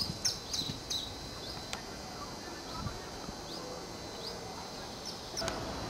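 Small birds chirping: a quick run of high falling chirps at the start, then a few scattered short rising chirps over a faint steady background. A short sharp click comes near the end.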